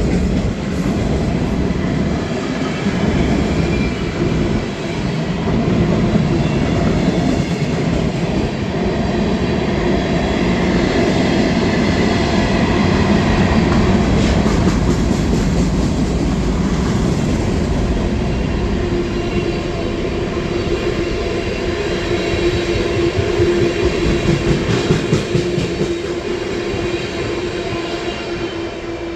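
Long Island Rail Road train running past at close range, its wheels clicking over the rail joints. A steady whine comes in about two-thirds of the way through, and the sound begins to fade near the end.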